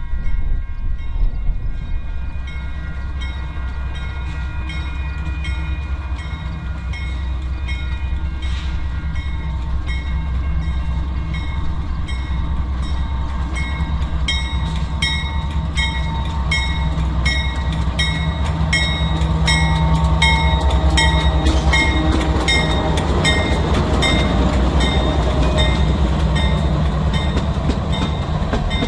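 Union Pacific freight train rolling past: a steady low rumble with a regular clicking of wheels over the rail joints. The clicking comes quicker and the sound grows a little louder about two-thirds of the way in.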